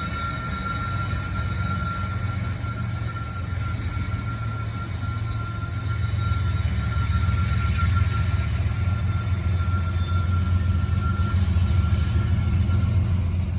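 A long freight rock train's cars rolling slowly past, a steady low rumble of wheels on rail with a thin, steady wheel squeal over it; the rumble grows louder about halfway through.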